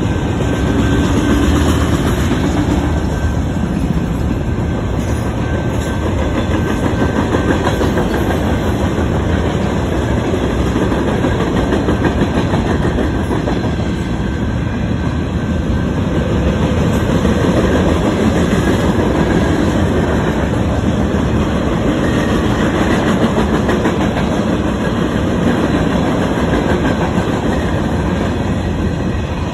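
Freight train cars rolling past close by, first autoracks, then boxcars and covered hoppers. Their steel wheels on the rails make a loud, steady rumble and clatter.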